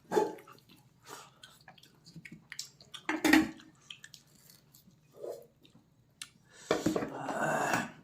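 Someone chewing and eating pork leg, with mouth noises and a few sharp clicks and knocks of dishes or utensils. The loudest knock comes about three seconds in, and a longer noisy stretch of eating sounds comes near the end.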